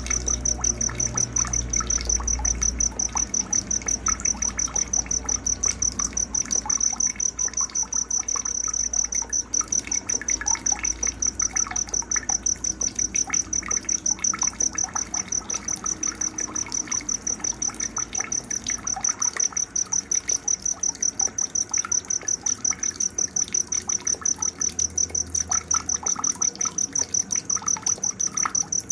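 Night nature ambience: an insect's high, steady pulsing chirp, about four pulses a second, over scattered short bird chirps and calls. A low rumble underneath dies away about two-thirds of the way through.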